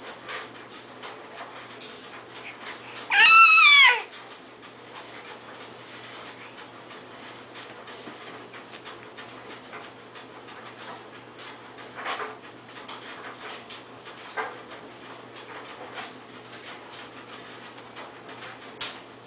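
A loud, high-pitched squeal that falls in pitch, about three seconds in and lasting about a second, with two fainter short falling squeals later. Soft small clicks run under it.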